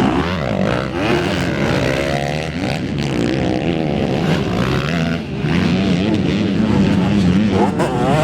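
Several 250 cc racing motorcycles running on a dirt track, engines revving up and down and overlapping as they go round.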